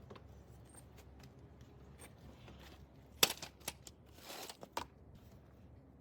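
A sharp clack about three seconds in, then several lighter clicks, a short scrape and one more click, like small parts or tools being handled.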